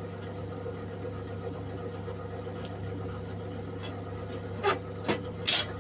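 MIG welder humming steadily while switched on but not welding, with a few short handling sounds near the end.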